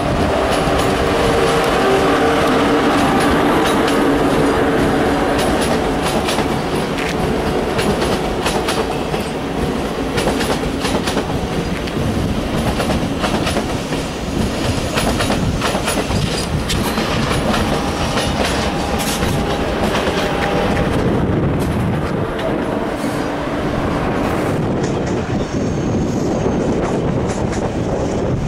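An ICE high-speed train rolls past, its wheels clacking rhythmically over rail joints and points. A steady whine is strongest in the first few seconds.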